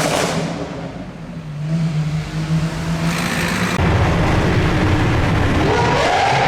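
Lamborghini supercar engine idling with a steady low tone, then revving hard about four seconds in, its pitch climbing near the end and holding high.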